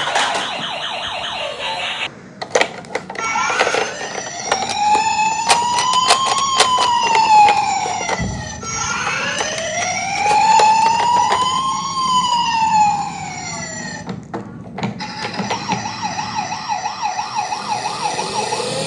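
Emergency vehicle sirens changing pattern: a fast yelp, then a slow wail that rises and falls twice, then a quicker warble near the end. There are scattered clicks early in the wail.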